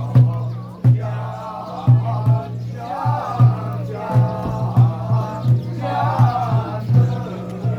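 Xiaofa ritual masters chanting, sung in several phrases, over regular percussion strokes about two or three a second and a steady low hum.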